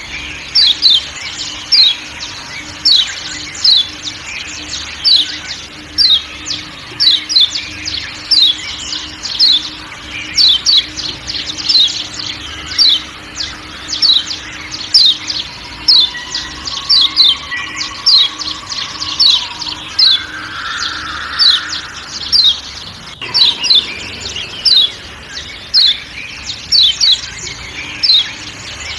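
Kecial kuning (Lombok yellow white-eye, a Zosterops) giving its repeated sharp 'ciak ciak' call: short, high, falling chirps, mostly in pairs, about twice a second, over a faint forest background.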